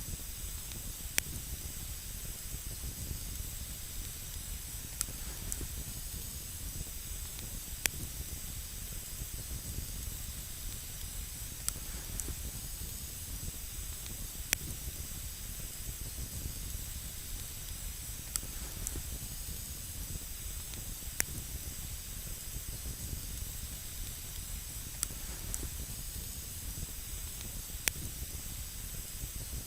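Wood campfire burning with a steady hiss and a low rumble, and sharp single crackles about every three seconds.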